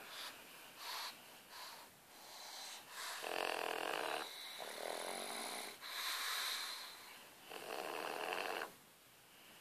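Pugs snoring. A few short snoring breaths in the first two seconds are followed by four longer ones of about a second each, spaced by short pauses.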